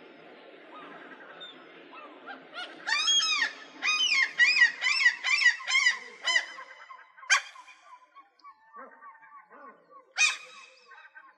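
Gull calling: a loud laughing series of repeated rising-and-falling calls, about two a second, starting about three seconds in, then two single sharp calls later on. Faint chatter of other birds lies underneath at the start.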